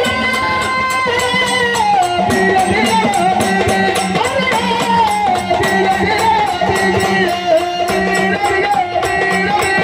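Traditional Marathi gondhal folk music: a long, held melodic line that bends and ornaments in pitch, over fast, even percussion with jingling strokes.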